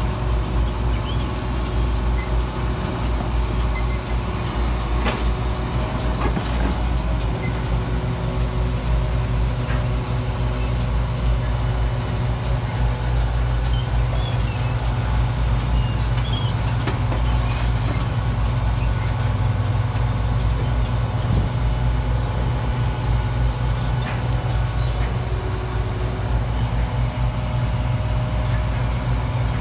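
Garbage truck engine running steadily, a continuous low rumble with a steady hum above it.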